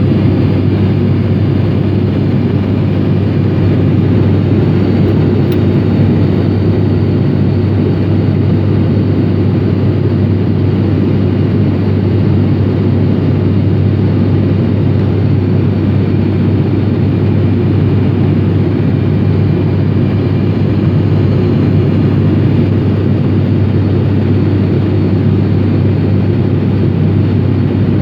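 ATR72-500's twin Pratt & Whitney PW127 turboprops and propellers heard from inside the cabin in flight: a loud, steady drone with a strong low hum.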